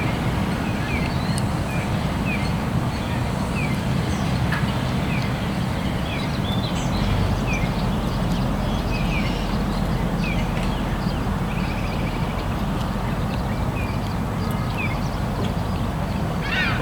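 Birds calling outdoors, with short, falling chirps every second or so over a steady low rumbling hiss.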